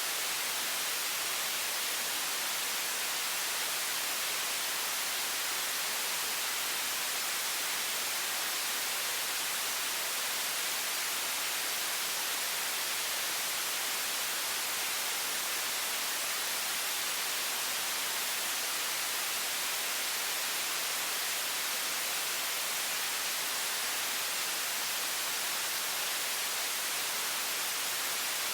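Steady, unchanging hiss of a high-pressure water stream from a faucet: a bright, even rush with little low rumble.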